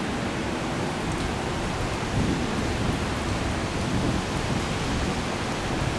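Heavy rain from the storm falling steadily, an even rushing noise with a heavier low rumble that swells slightly a couple of times.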